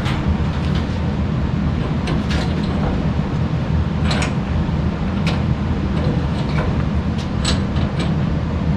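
Scattered clicks and knocks of metal furnace parts and pipe being handled and fitted, over a steady low rumble. The sharpest knocks come about four seconds in and again about seven and a half seconds in.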